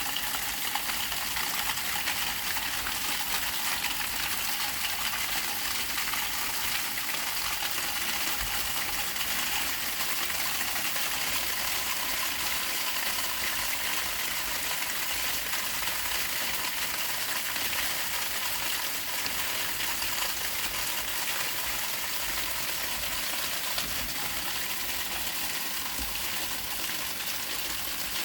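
Sleet falling steadily, an even hiss with no thunder heard.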